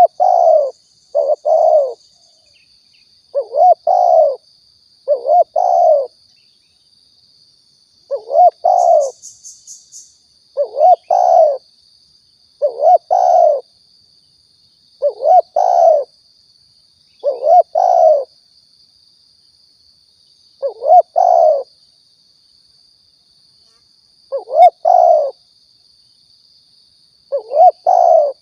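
Spotted dove (tekukur) cooing: a short, low, two-part coo phrase repeated about every two seconds, with a faint steady high-pitched hum behind it. It is a lure call for drawing wild doves in.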